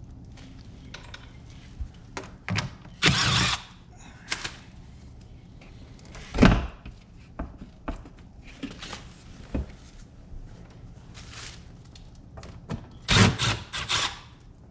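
Scattered clunks and knocks of hands working on the sheet-metal cabinet of a Rheem air handler. There is a short scrape about three seconds in, a heavier thud about halfway, and a quick cluster of knocks near the end, over a low steady hum.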